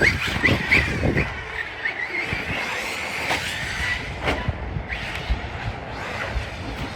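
Electric motor of a 1/18 Arrma Granite Grom Mega 380 brushed RC monster truck whining, revving up and down as it is driven, over a rough rumble of tyres and chassis knocking on the ground.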